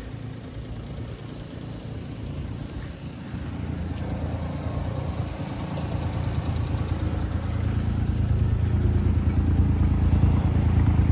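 Small car engine, that of the Suzuki Alto Works's 660 cc turbocharged three-cylinder, running with a steady low hum that grows steadily louder over the seconds.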